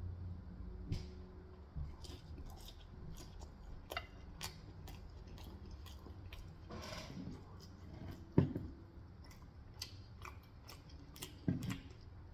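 Close-miked chewing of food, with small wet mouth clicks throughout and a couple of louder smacks near the end.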